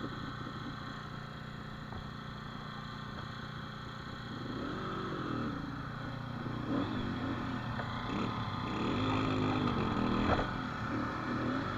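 Dirt bike engine idling, then revved up and down repeatedly from about four seconds in.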